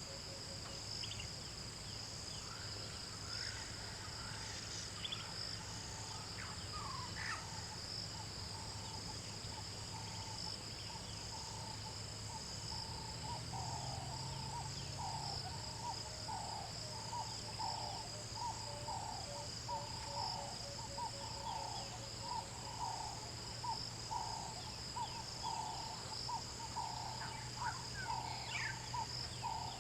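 African bush ambience: insects trill steadily, with a low hum underneath. From about halfway on, a bird calls over and over in short hooting notes, roughly one a second.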